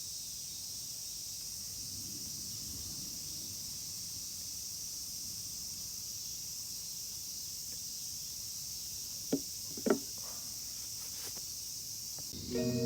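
Steady high-pitched hiss like a chorus of crickets or other insects, with two short clicks a little past the middle.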